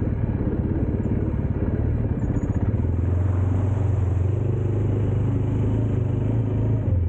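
Dirt bike engine running steadily as the bike is ridden, a continuous low drone with a fast pulse.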